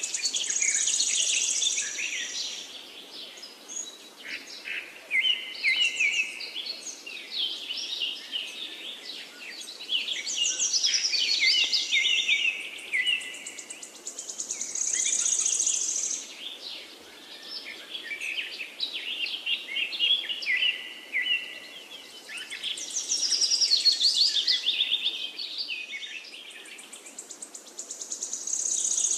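Birds chirping in repeating phrases of a few seconds each, with high trilling notes, over a faint steady background rush.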